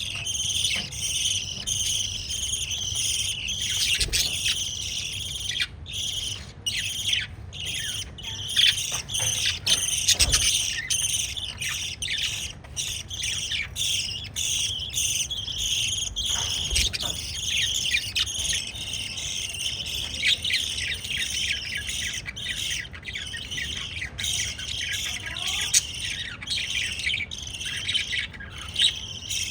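Pet lovebirds chirping nonstop: a dense stream of rapid, high, overlapping chirps with no pauses. A few short low thumps come through at times.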